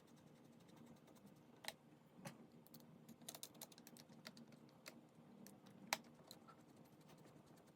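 Faint, irregular light clicks and taps of small parts and hand tools being handled during steering wheel work, over a faint steady hum. One sharper click comes about six seconds in.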